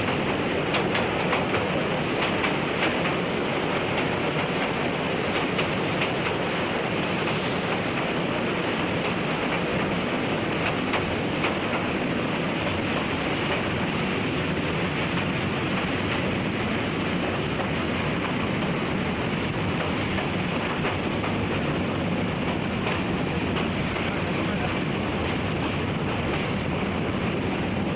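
A train running along the rails, a steady rumble with faint clicks of wheels over the track.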